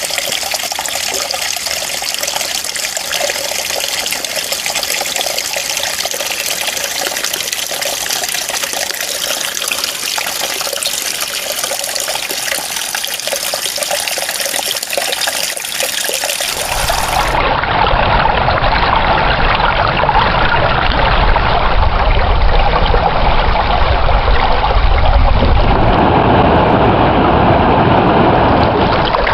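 Running water trickling and splashing in a steady hiss. About two-thirds of the way in, it switches abruptly to a louder, deeper rushing flow with a low rumble.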